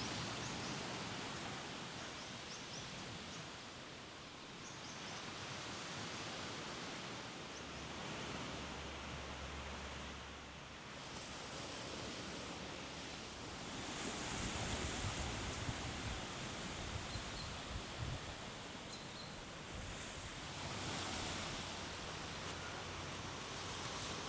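Sea surf washing on a beach, a steady hiss that swells and fades every few seconds, with a breeze.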